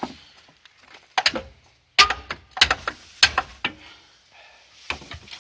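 A handful of sharp, irregular knocks and strikes, roughly half a second apart in the middle, from work on a car in a garage during an engine pull.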